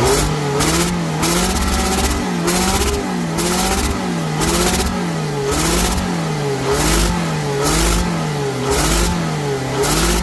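Scion xB's 2.4-litre four-cylinder engine running with its revs surging up and down about once a second, a hissing puff with each surge. The owner puts the hiss and pulsating RPMs down to an exhaust leak.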